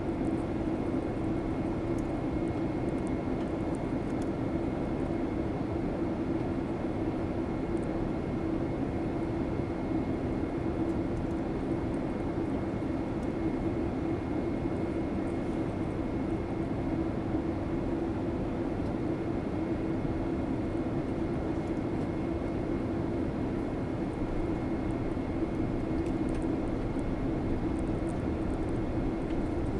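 Steady drone of an airliner's engines and rushing air heard inside the passenger cabin, with a constant low hum and a faint high whine.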